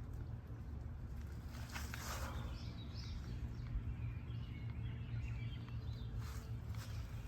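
Outdoor garden ambience: small birds chirping intermittently over a steady low rumble, with a couple of soft rustling swishes, one about two seconds in and one near the end.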